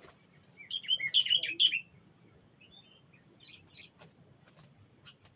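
A small songbird chirping: a quick, loud run of short chirps about a second in, then a few fainter chirps, with some faint clicks near the end.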